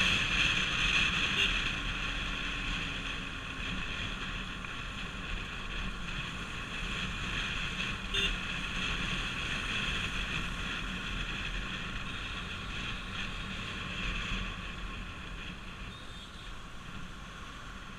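Bajaj Pulsar RS200's single-cylinder engine running while riding, mixed with steady wind noise on the microphone; the sound slowly gets quieter, with a brief knock about eight seconds in.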